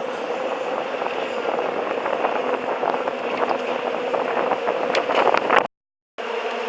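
Steady hum of a fishing boat's engine with wind and water noise, a few faint clicks, and a half-second dropout near the end.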